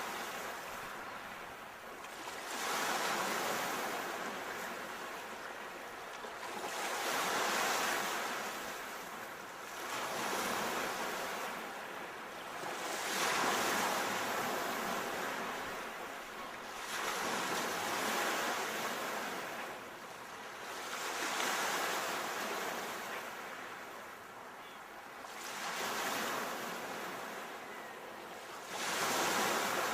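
Ocean waves breaking, each wave a swelling rush of surf that rises and fades, coming in about every four to five seconds.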